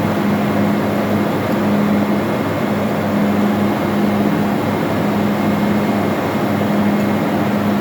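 Steady engine-room machinery noise, with a low hum that swells and fades every second or so.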